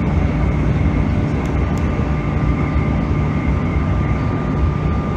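JR East E531 series electric train running at steady speed, heard from inside the car: a continuous loud rumble of wheels on the rails, with a few steady tones held over it and no rise or fall in pitch.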